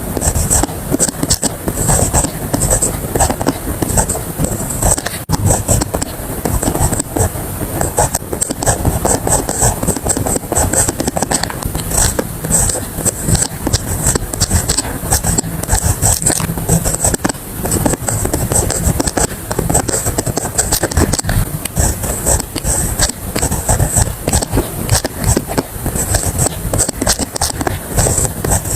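A pen writing quickly on paper, a dense run of scratching strokes with small taps.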